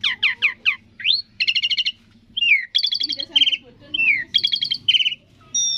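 Asian pied starling (jalak suren) singing a varied, fast song: a string of quick falling whistles, then a rising whistle, then runs of rapid buzzy trilled notes broken by short pauses.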